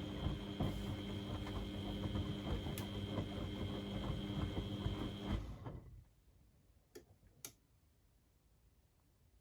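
Beko WMD 46160 washing machine's drum motor running with a steady whine and a patter of knocks from the tumbling drum. It stops about five and a half seconds in and winds down within half a second. Two sharp clicks follow a second or two later.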